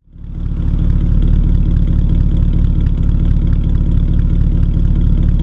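Vintage Hudson car engine running steadily, with a fast even pulse. It swells up quickly in the first second.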